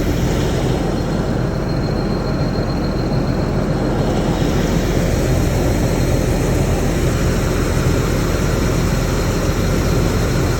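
Rice combine harvester's engine running steadily under load, a dense continuous mechanical noise.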